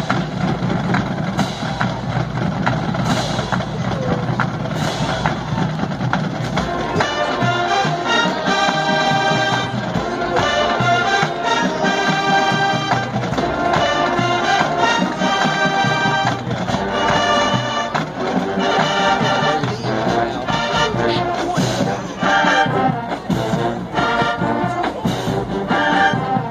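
High school marching band playing. Percussion leads at first, then the brass section comes in about seven seconds in with loud, short, repeated chords.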